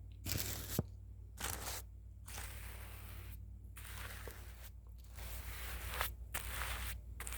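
A brush sweeping across the microphone in a series of scratchy strokes, about six of them, with short pauses between.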